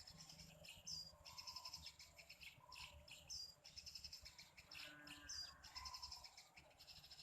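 Faint high bird chirps, three short groups about two seconds apart, over a steady high insect buzz.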